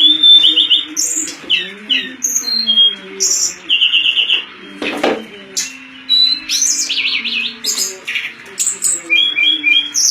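Tledekan songbird singing a fast, varied series of high chirps and rapid trills, several phrases a second, as in a recording used to train contest songbirds. Low steady tones run beneath, and there is a sharp click about five seconds in.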